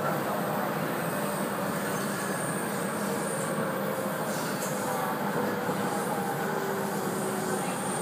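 701 series electric train running along the line, heard from on board: a steady rumble of wheels and rails with faint whining tones, one of which slowly drops in pitch in the second half.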